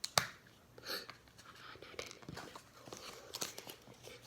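Small taps, clicks and crinkly rustles as decorations are handled and added to a cup of slime, with one sharper tap just after the start.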